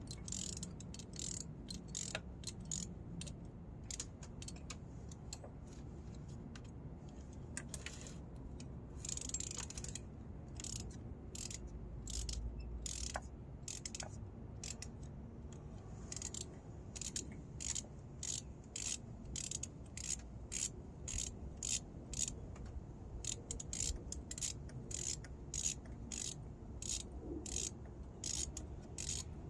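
Ratchet wrench clicking in uneven runs of sharp clicks as it turns a socket to work a spark plug loose.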